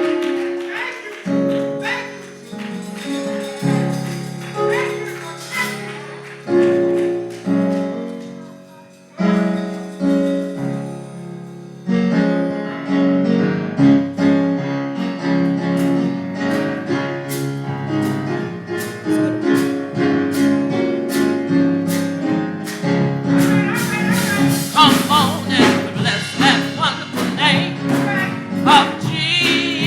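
Gospel music in church: sustained keyboard chords at first, joined about twelve seconds in by a steady percussion beat, with singing voices coming in over the last several seconds.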